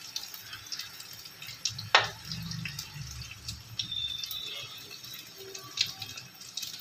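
Egg and chopped-vegetable omelette mixture sizzling and crackling in hot oil in a frying pan, freshly poured, while a steel spoon scrapes across the pan to spread it. One sharp knock of the spoon on the pan about two seconds in.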